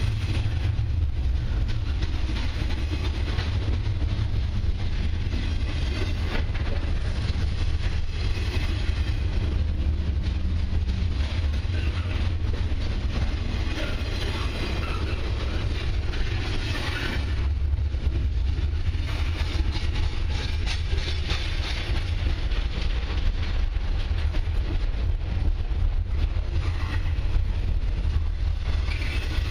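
Double-stack intermodal freight cars rolling past close by: the steady low rumble of steel wheels on the rails, with scattered clicks and clatter from the wheels and couplings.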